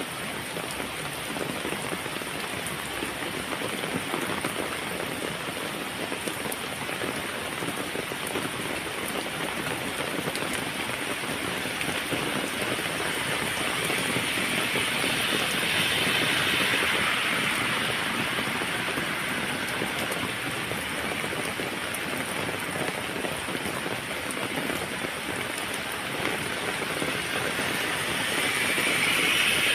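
Heavy rain falling steadily, a dense even hiss of drops. It swells louder for a few seconds around the middle and again near the end.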